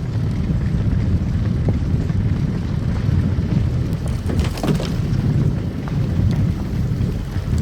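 A car driving on a snow-covered road: a steady low rumble of tyres and engine, with a brief burst of crackling clicks about halfway through.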